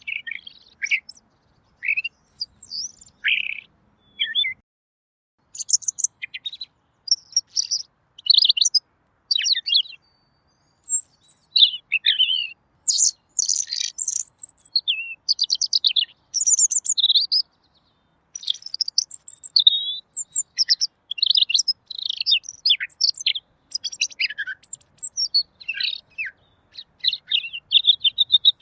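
Pekin robin (red-billed leiothrix) singing a fast, varied, clear song of high chirps and trills, in long phrases broken by brief pauses.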